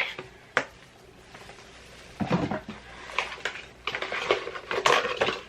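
Small objects being handled at close range: a few sharp clicks and taps with short rustling bursts, as a perfume bottle and its packaging are handled.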